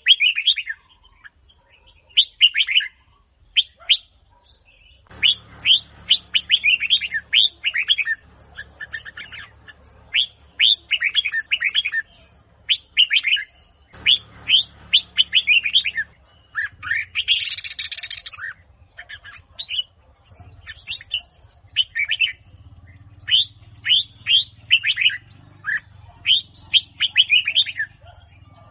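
Red-whiskered bulbul singing: quick phrases of sharp, clear whistled notes, repeated again and again with short pauses between them.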